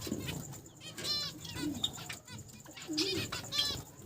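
Several small cage finches calling, with short repeated chirps about a second apart and a few low gliding notes in between.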